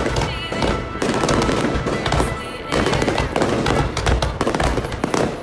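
A fireworks display going off in quick succession, a dense stream of bangs and crackling with no break, with music behind it.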